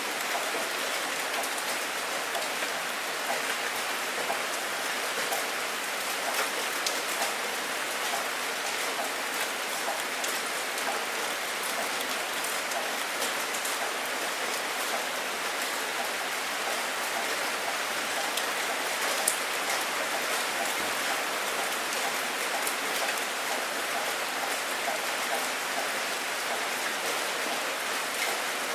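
Steady rain falling, a dense even hiss with many small drops ticking on a surface; one drop ticks a little louder about two-thirds of the way through.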